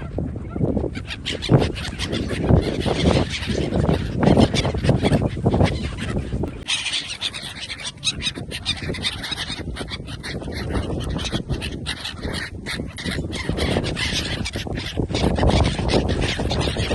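Geese and other waterfowl honking and calling, over a steady low rumble with many short knocks.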